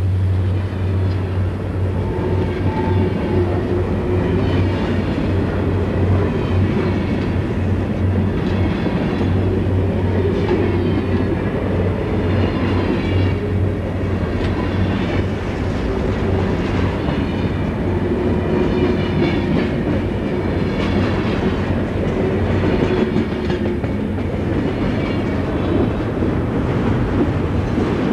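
Freight cars of a Southern Pacific train rolling past close by: a steady rumble of steel wheels on rail with clickety-clack, and faint wheel squeal tones coming and going on the curve.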